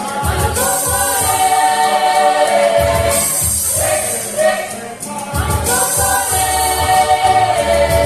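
A choir singing held chords in long phrases, with a short break about five seconds in.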